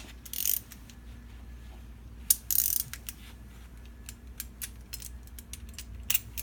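Hand ratchet clicking in short runs, with scattered metal clinks, as a wrench is worked on an oil filter that won't turn.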